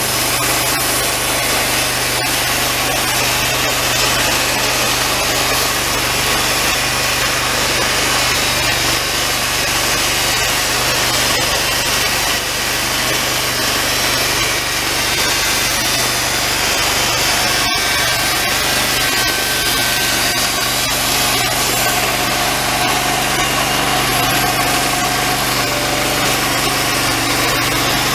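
Homemade engine-driven band sawmill running steadily as its blade cuts through a longleaf pine log, the engine holding a constant pitch under the hiss of the cut. The blade is old and worn. A single sharp click sounds partway through.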